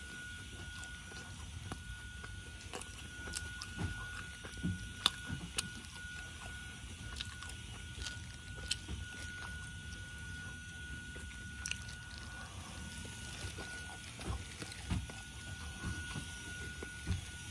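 Close-miked chewing of steak and potato cheese pizza: irregular wet mouth clicks and soft low thuds from chewing. A faint steady high-pitched tone sounds underneath and drops out briefly near the middle.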